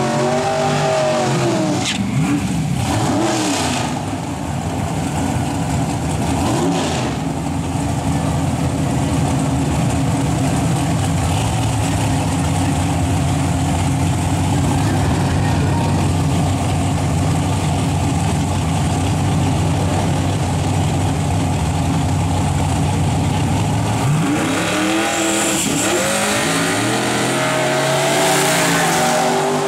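Drag racing car engines revving, the pitch sweeping up and down, then settling into a long steady rumble for most of the stretch before revving again near the end.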